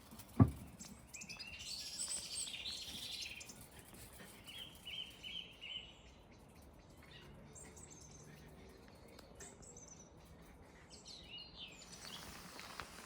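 Wild birds chirping and singing in repeated short phrases, with one loud thump about half a second in.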